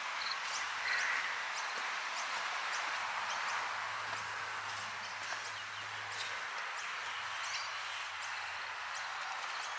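Rural outdoor ambience: scattered short bird chirps over a steady high hiss, with a faint low hum underneath.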